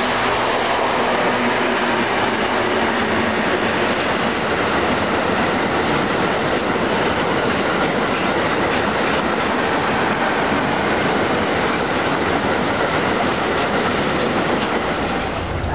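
Freight train of empty two-deck car-transporter wagons rolling past close by: a steady, loud rumble and rattle of steel wheels on the rails.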